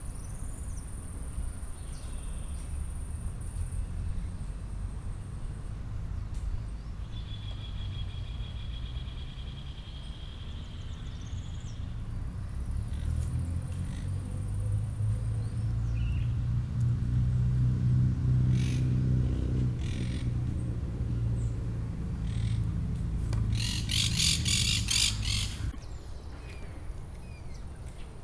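Birds chirping and calling, with a held high note a few seconds in and a rapid run of pulsing calls near the end, over a steady low rumble that swells in the middle.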